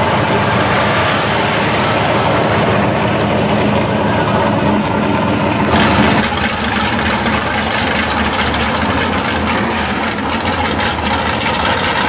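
Muscle-car engines idling, loud and steady. About six seconds in, the sound changes abruptly as one car's idle gives way to another's.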